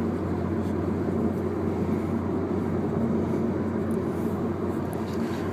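Steady drone of road and engine noise heard inside a moving car's cabin.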